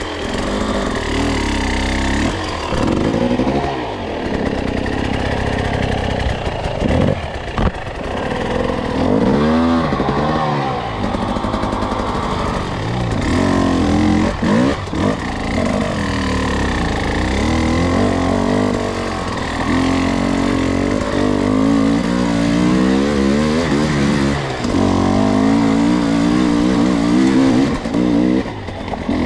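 Two-stroke enduro dirt bike engine running under load on a trail, its revs rising and falling again and again as the throttle is worked, with a few quick sharp revs along the way.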